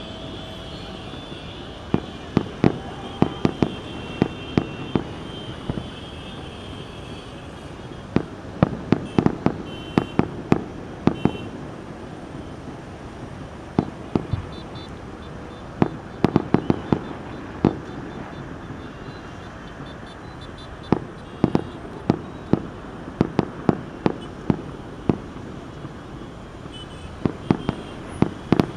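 Fireworks going off: many sharp bangs in irregular clusters, some in quick rapid-fire runs, over a steady crowd and city background hiss.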